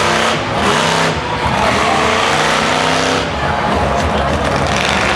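Monster truck engine running loud and revving up and down.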